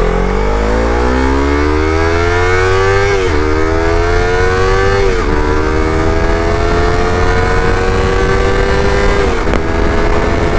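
Yamaha R3's 321cc parallel-twin engine through an Akrapovic slip-on exhaust, accelerating hard through the gears: the revs climb, drop at an upshift about three seconds in, climb again, shift about five seconds in, then rise more slowly until a third upshift near the end.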